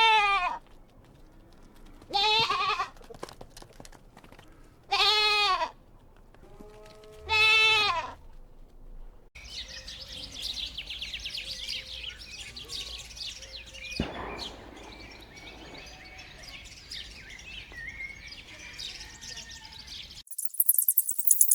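A farm animal bleating: four short, wavering bleats about two and a half seconds apart. From about nine seconds in, a busy mix of high chirping calls sounds over a steady hiss, and near the end a high jingling rattle starts.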